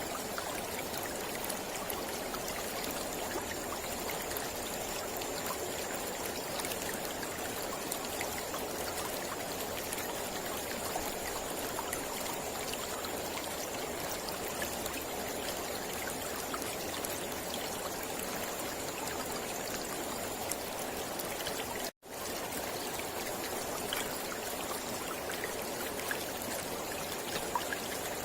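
Mountain river flowing with a steady rush of water. The sound drops out for an instant about three-quarters of the way through.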